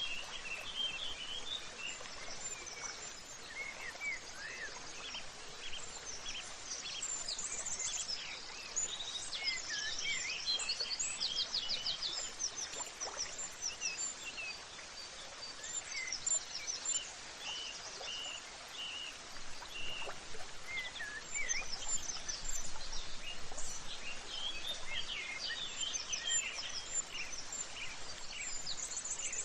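Many birds chirping and singing, with short overlapping calls and trills, over a soft, steady background hiss.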